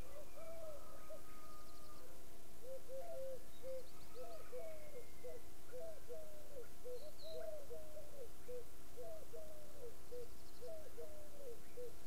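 Birds calling: a long run of short, low notes, a few each second, with a few faint higher chirps above them.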